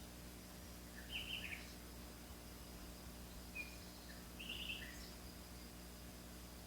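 Faint birdsong: short chirping phrases about a second in and again around four and a half seconds, over a steady low background hum.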